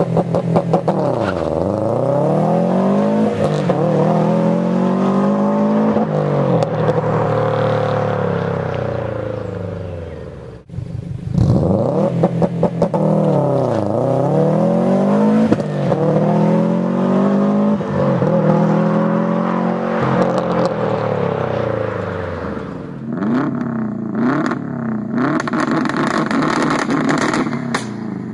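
Subaru Impreza WRX STi turbocharged flat-four exhaust, the engine note climbing and falling several times in long sweeps, with a short break about eleven seconds in. Near the end it turns into a rougher, crackling note.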